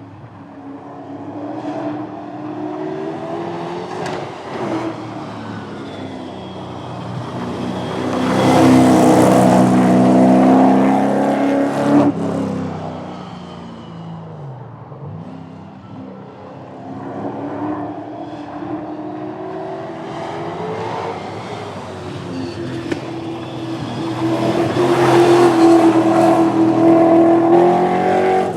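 Street cars accelerating hard on a drag run, their engines climbing in pitch through the gears. The sound is loudest about eight to twelve seconds in and again near the end.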